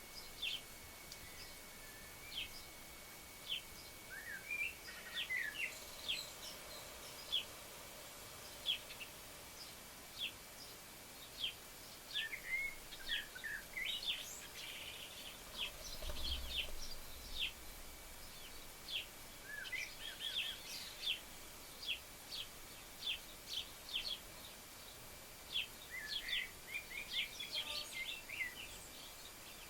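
Garden birds calling: short, sharp chirps repeated about once a second, with a few quick twittering runs mixed in.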